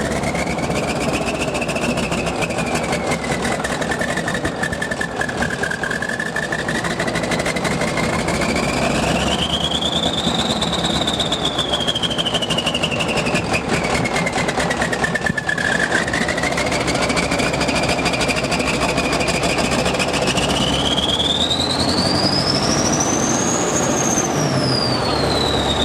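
Kirovec Kladrub 2 tractor's YaMZ-238 V8 diesel running, with a high whine that rises and falls in pitch over several seconds and climbs highest near the end.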